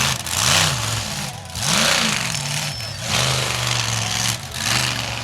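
Monster truck engine revving hard: it climbs and drops in pitch twice in quick blips, then holds at high revs for about a second, twice, with a loud exhaust roar on each rise.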